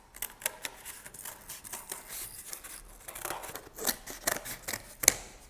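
Scissors cutting through corrugated cardboard: an irregular run of crisp snips and crunches, the sharpest about five seconds in.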